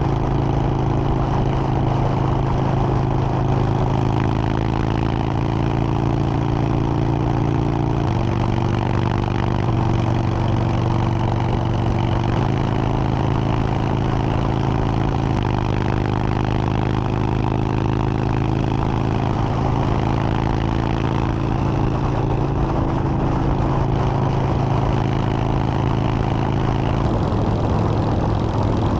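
Motorcycle engine running steadily under way, its pitch shifting a little several times, over steady wind and road noise.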